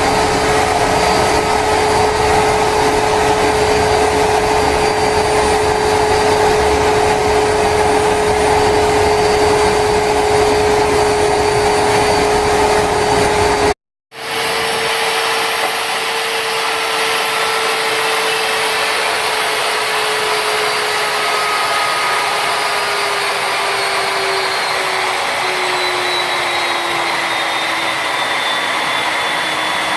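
Homemade turbocharger jet engine running with a loud, steady rush and a whine. After a sudden break about halfway, the sound returns and the whine slowly falls in pitch as the turbine winds down.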